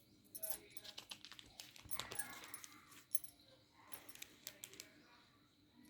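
Faint, irregular clicks and light clatter, as of small objects being handled, busiest about two seconds in.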